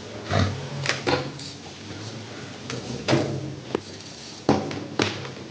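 A series of irregular clicks and knocks, about eight in all, from tools and parts being handled on a workbench during an induction cooktop repair.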